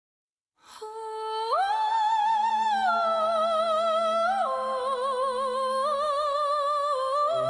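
Music intro: a high wordless voice singing long held notes with a wide vibrato, stepping up about a second in and down twice after, over a faint low drone. Lower accompanying parts come in near the end.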